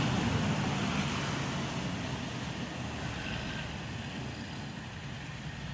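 Steady vehicle or road-traffic noise, a low rumble that slowly fades.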